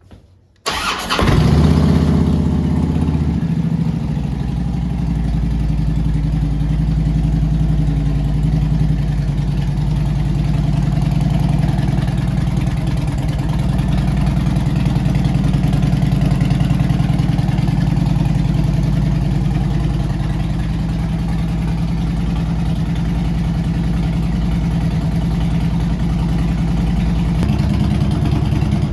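2007 Harley-Davidson Street Glide's Twin Cam 96 V-twin started up: a moment of cranking, then it catches under a second in, runs at a fast idle for a couple of seconds and settles into a steady, lumpy idle.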